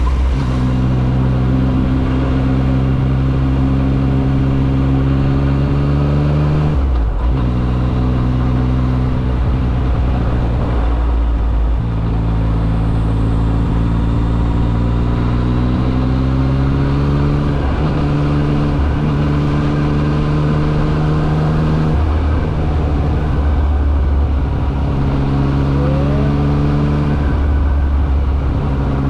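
Yamaha XSR900's three-cylinder engine running under way. Its note slowly rises and falls, with a few brief breaks in the pitch, as when the throttle is rolled off or a gear is changed.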